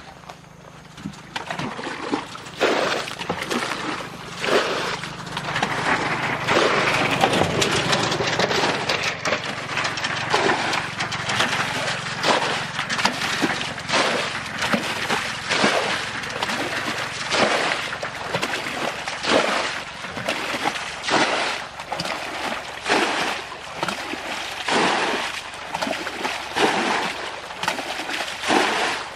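Water splashing over and over, about one splash a second, with a stretch of near-continuous sloshing a few seconds in, as someone works in the water with a cast net.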